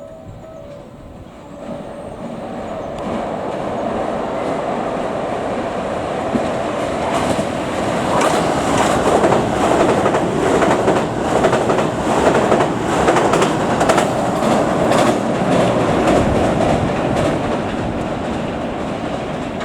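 Electric train passing through the station at speed without stopping. Its wheels clatter over the rail joints in a fast rhythm that swells to a peak in the middle and then eases away.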